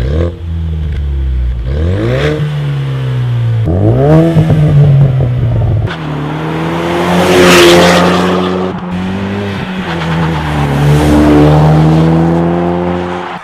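Ford 2.3-litre EcoBoost turbocharged four-cylinder exhaust revving: two quick climbs in pitch, then a long sustained pull at high revs with brief dips, cutting off suddenly at the end.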